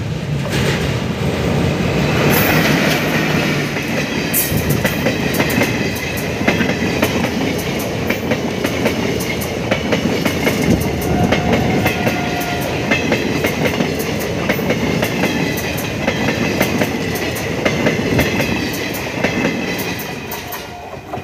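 Teesta Torsa Express passing close at speed: a steady rumble packed with rapid clickety-clack of coach wheels over rail joints, with a thin high ringing from the wheels. It fades over the last second as the tail of the train goes by.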